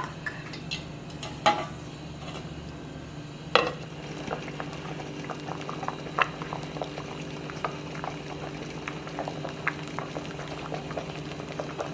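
Thick Jamaican chicken soup with mashed pumpkin and squash simmering in a pot, with many small bubble pops over a steady low hum. Two sharp knocks come in the first few seconds.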